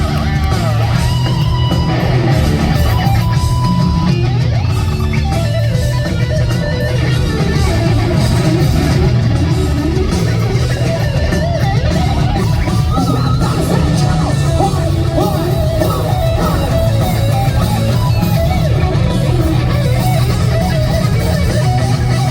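Live hard-rock band playing loud, with electric guitar to the fore over bass and drums; the lead line bends and wavers in pitch.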